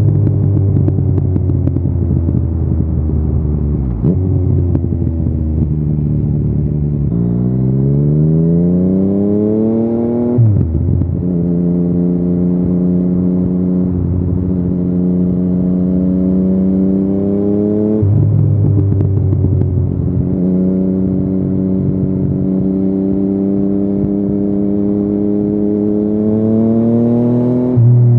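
Yamaha XSR900's CP3 three-cylinder engine through an Akrapovič carbon full exhaust, under way: the pitch climbs under acceleration, drops sharply at a gear change about ten seconds in, holds steady while cruising, then climbs slowly again and drops near the end.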